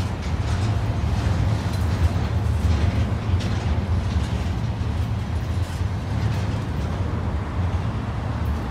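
Double-stack intermodal freight cars rolling past close by: a steady low rumble of steel wheels on rail.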